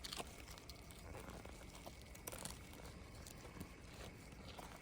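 Faint, scattered crunching of footsteps, with small irregular clicks and crackles.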